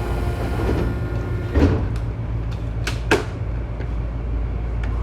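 Tobu 9000 series train's sliding passenger doors closing, two thuds about a second and a half apart, with a few clicks, over the steady low hum of the stopped electric car.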